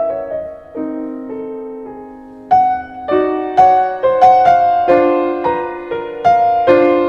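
Background piano music: a slow, gentle melody of struck notes that fade after each strike, quieter for the first couple of seconds and then picking up to about two notes a second.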